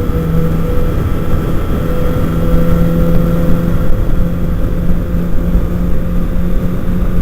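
Kawasaki Ninja ZX-6R sport bike's inline-four engine running at a steady cruise, its drone edging slightly higher in pitch, with rough wind rush on the microphone.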